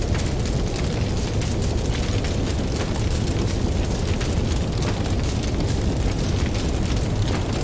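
Campfire crackling with many small pops over a steady deep rumble, mixed with ocean waves.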